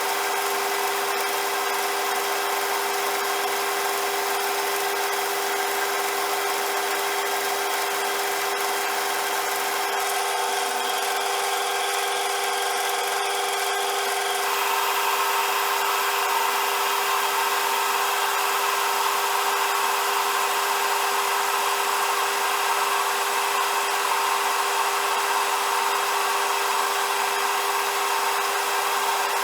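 CJM360 metal lathe running with a steady whine and a hiss of machining noise. The low hum drops away about ten seconds in, and about fifteen seconds in the sound turns brighter and a little louder.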